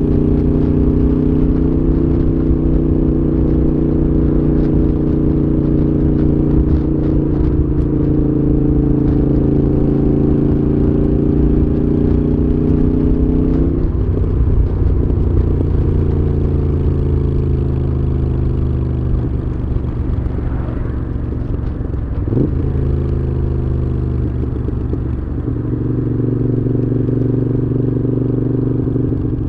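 Moto Guzzi V7's air-cooled transverse V-twin running through a Mistral exhaust while riding. The engine note holds steady, drops about halfway through, shifts up and down for a few seconds, then steadies again near the end.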